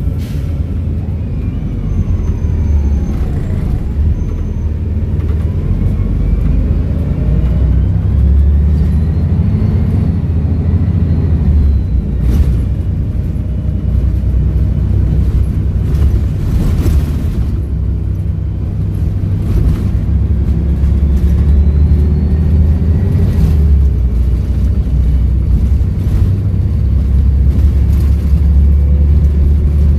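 Volvo B7RLE bus's diesel engine running as the bus drives, a steady low rumble with a faint turbo whistle rising and falling several times. Brief knocks and rattles come through now and then.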